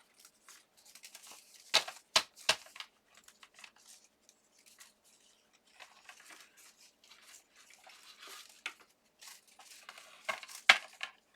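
Cardstock die-cut pieces being handled: paper rustling and sliding, with a few sharp taps about two seconds in and a louder one near the end.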